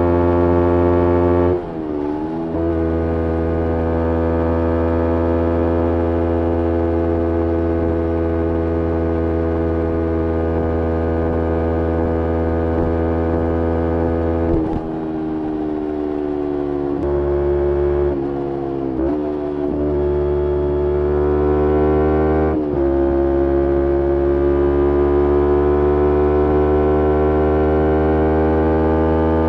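2011 Kawasaki Ninja 250R's parallel-twin engine through a full Graves race exhaust, ridden at steady revs. The pitch drops sharply several times, about two seconds in, around fifteen and nineteen seconds, and again at twenty-two, and climbs slowly between the drops as the bike accelerates through the gears.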